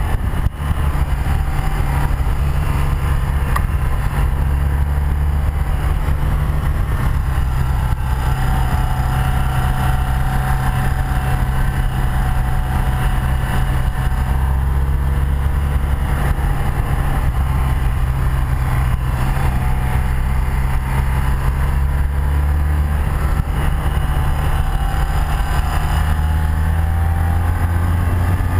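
Motorcycle at road speed: a 1984 BMW R100RS's air-cooled flat-twin engine running steadily under heavy wind rush on a chest-worn microphone. The engine note shifts a couple of times, near the start and again near the end.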